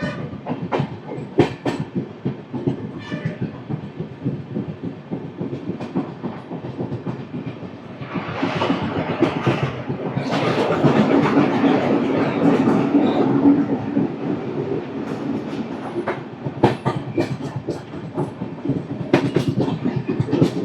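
Express passenger train running at speed, a steady rumble with the clickety-clack of its wheels over the rail joints. The running noise swells louder for several seconds midway.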